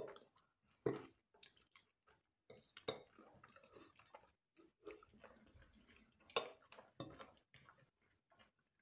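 Quiet chewing of spaghetti and fried chicken: irregular soft mouth clicks, a few of them louder.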